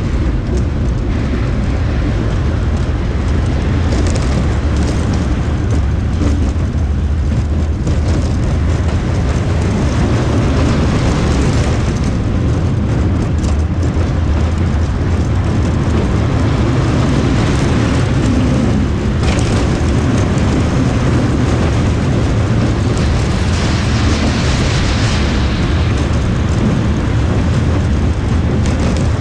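Roller coaster train running along its track, a steady low rumble of the wheels with wind rushing over the onboard camera's microphone. The rushing swells several times.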